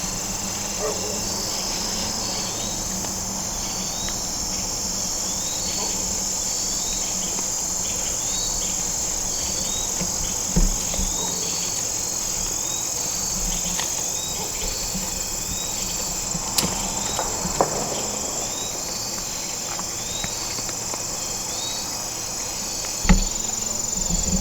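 Crickets and other insects calling steadily: a continuous high trill with a short chirp repeating at even intervals. A few faint knocks stand out, the clearest near the end.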